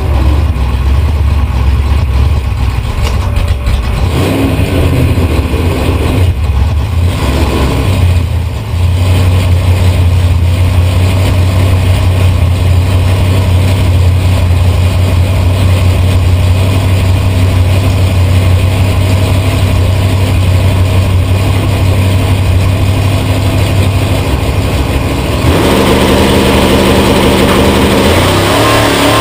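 A Chevy drag car's engine idling loudly, heard from inside the car's cabin as a steady, deep low note. About 25 seconds in, the sound changes as a higher, pitched layer comes in over it.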